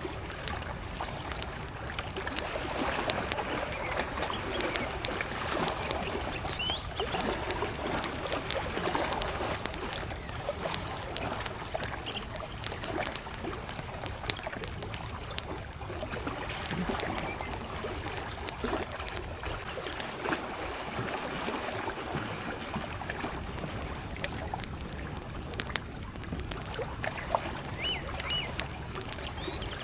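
Small lake waves lapping steadily at the shore, mixed with the frequent sharp pops and crackles of a wood campfire. A few faint bird chirps come in now and then.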